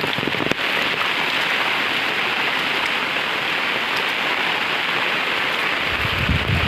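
Heavy monsoon rain falling steadily in an even, loud hiss, with a few sharp drop ticks at the start. A low rumble of wind on the microphone comes in near the end.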